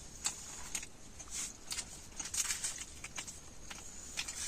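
A person chewing food close to the microphone: soft, irregular clicks and crackles, several a second.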